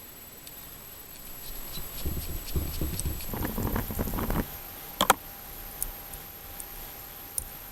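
Small carburetor parts being handled while the choke assembly is fitted to a snowblower's new carburetor: a few seconds of rustling and scraping, then a sharp metallic click about five seconds in and a few light ticks.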